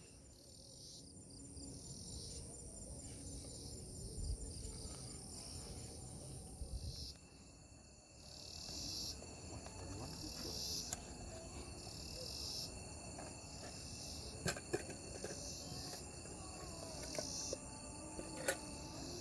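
Insects, likely crickets, trilling steadily in high-pitched pulsing blocks, over a low rumble, with a few sharp clicks in the second half.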